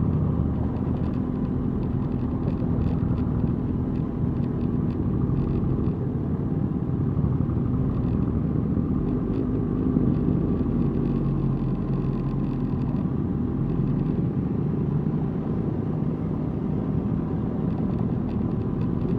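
Motorcycle engines running at a steady low rumble, with no revving.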